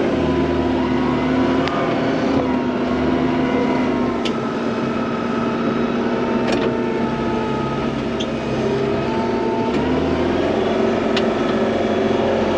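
Vehicle engine running steadily under load while pushing through a deep snow drift. Its note sags a little midway and picks up again near the end, with a few faint clicks.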